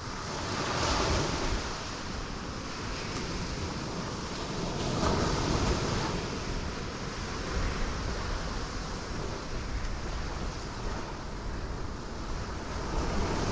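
Ocean waves breaking on rocks: a continuous rushing wash of surf that swells about a second in and again around five seconds in.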